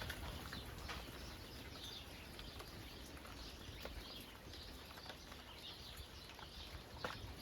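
Light rain falling steadily, with small birds chirping over it many times and a few sharp drip ticks.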